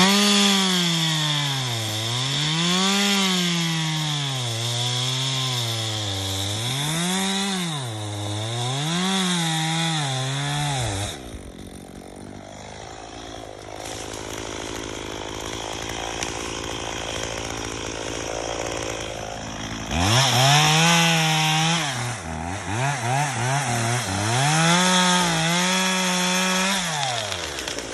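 Chainsaw cutting into a tree trunk during a felling cut. The engine's pitch sags repeatedly as the chain bites and picks up as it frees. It drops away for several seconds in the middle, then cuts again near the end.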